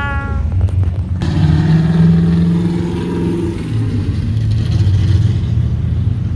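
Car engines rumbling low as cars drive past. About a second in, one car's engine comes in suddenly and loudly, holds a steady note for about two seconds, then fades back into the rumble.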